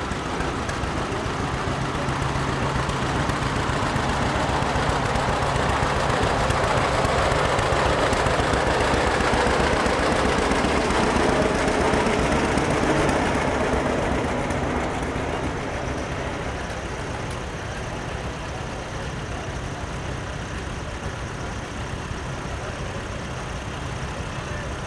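Antique tractor engine chugging as the tractor drives past, getting louder to a peak about halfway through and then fading away.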